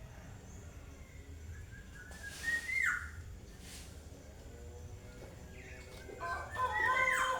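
Young black-naped oriole singing: a short whistled phrase with a sharp downward-swept note about two seconds in, then a louder phrase of several held whistled notes and sweeps near the end.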